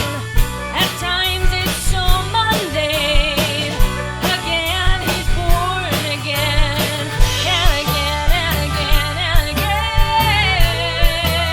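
Americana band playing live: a woman singing lead over drums keeping a steady beat, with acoustic guitar, bass, fiddle and pedal steel.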